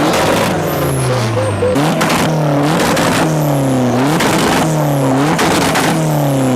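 Mazda Miata's four-cylinder engine revved again and again: about five quick blips, each rising fast and falling away, with sharp cracks among them.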